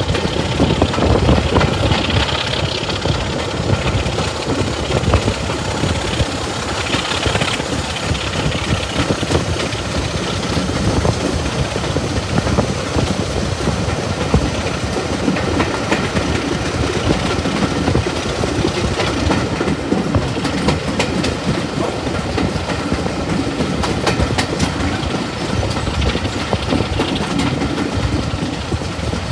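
Diesel-hauled heritage railway passenger coach running along the line, heard through an open window: a steady rolling rumble of the wheels on the rails with a running patter of clicks from the wheels and rail joints, and a diesel locomotive's engine beneath it.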